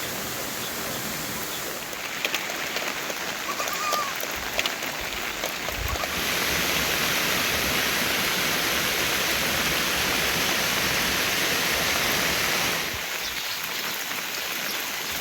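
Steady hiss of heavy monsoon rain and running water, louder from about six seconds in until near the end. Scattered sharp taps and one brief high chirp come in the first few seconds of the louder stretch's lead-up.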